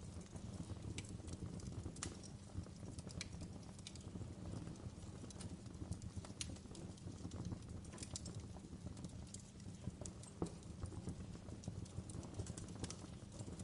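Wood fire crackling, with irregular sharp snaps and pops over a low, steady rumble of burning.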